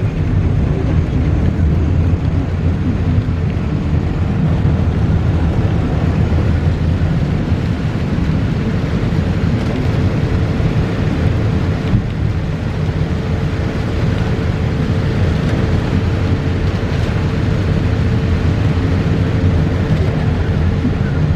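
Heavy rain on a moving car heard from inside it, over a steady low rumble of road and engine noise. A faint steady hum comes in partway through.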